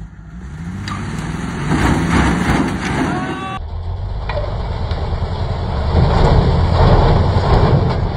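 Loud vehicle noise, low and rough, with a sudden change in sound about three and a half seconds in.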